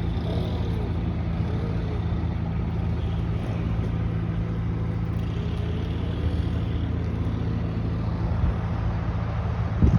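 Machinery running steadily: a low engine drone with a fainter tone wavering up and down above it, and a sharp knock near the end.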